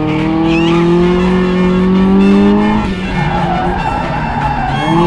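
1999 Mazda Miata's 1.8-litre four-cylinder with an aftermarket header and Borla exhaust, pulling up through the revs for about three seconds and then dropping off, heard from inside the cockpit. The tyres squeal through a turn over the last two seconds.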